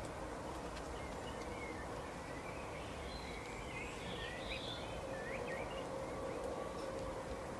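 Steady outdoor background noise with a faint steady hum, and small birds chirping briefly, mostly between about two and six seconds in.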